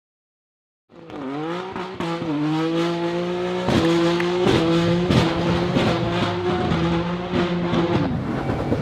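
BMW S55 twin-turbo straight-six running through an aftermarket exhaust, held at high revs with a steady note after two brief dips near the start. Sharp cracks sound through it at irregular intervals.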